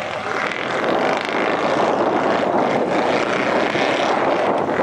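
Mud truck's engine running hard at high revs, a loud steady drone.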